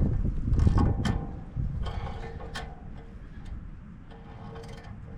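Ratchet wrench being worked in short, irregular strokes on the wood chipper's bolts, the pawl clicking, with the heaviest strokes in the first second or so.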